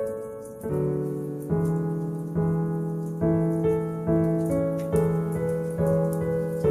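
Slow solo piano music, a note or chord struck about every second and left to ring, with faint crackling of a wood fire beneath it.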